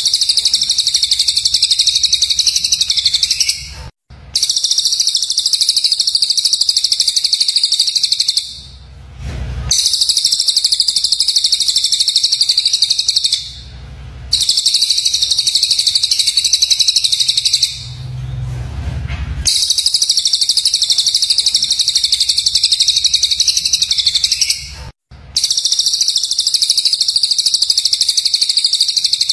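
Recorded songbird chatter: rapid, harsh, high-pitched calling in long bursts of about four to five seconds, broken by short pauses. It is typical of the coarse call bursts looped on a training track for teaching a caged bird.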